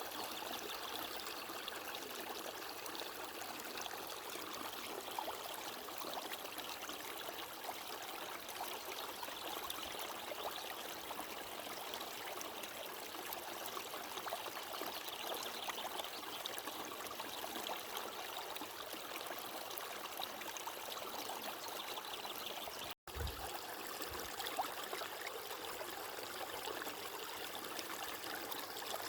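Running water of a stream, trickling and babbling. There is a momentary break in the sound about 23 seconds in.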